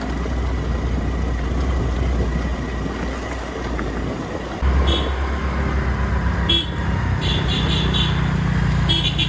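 Motor scooter riding along, with a heavy low rumble of wind on the microphone and the engine underneath. From about five seconds in, a vehicle horn sounds in several short beeps.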